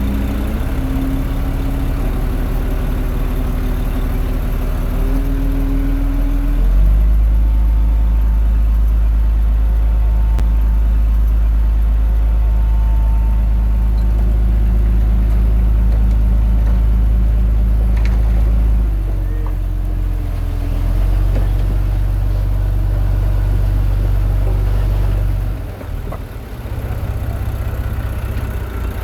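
Heavy diesel engine of earthmoving machinery running and working. Its low rumble rises in strength about a quarter of the way in, eases and shifts pitch about two-thirds through, and dips briefly near the end.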